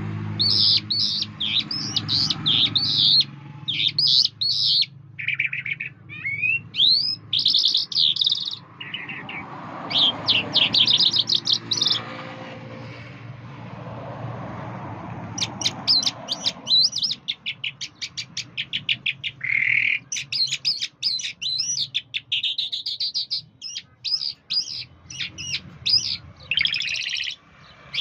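A songbird singing a long, varied song of fast trills and whistled phrases, with short breaks between bursts.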